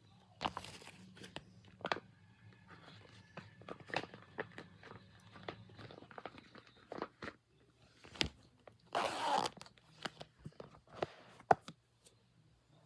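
Hands handling and squeezing squishy toys: scattered clicks and taps with crackly, crunchy rustles, the longest rustle about nine seconds in.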